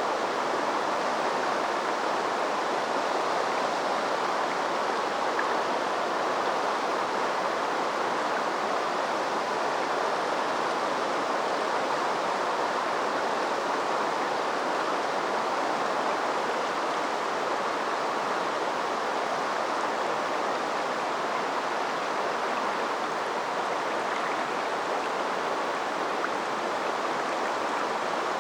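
Steady rush of flowing river water over a shallow stretch, an even babble with no breaks.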